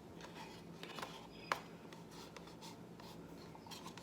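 Faint scraping and tapping as an acrylic paint bottle and plastic pour cup are handled while Van Dyke brown paint is squeezed into the cup, with one sharp click about a second and a half in. A faint steady hum sits underneath.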